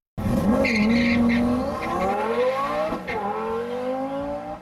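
Twin-turbocharged 5.2-litre V10 of a Lamborghini Gallardo Superleggera launching hard with brief tire squeal, then revving up through the gears, with one upshift about three seconds in where the pitch drops before climbing again.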